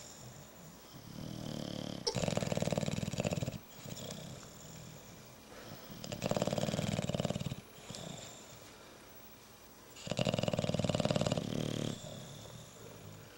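Bulldog snoring in deep sleep: three loud, rattling snores about four seconds apart, each lasting a second or two, with softer breaths between.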